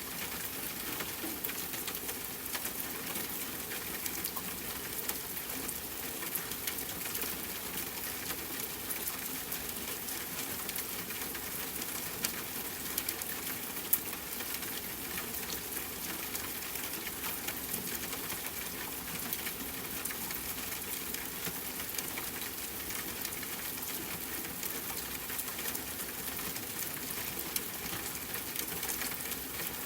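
Steady rain falling, mixed with a crackling campfire: many small pops over the even hiss, one louder pop about halfway through.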